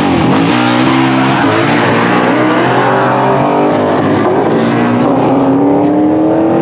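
Car engine running at high revs, its pitch dipping sharply near the start and then climbing slowly toward the end.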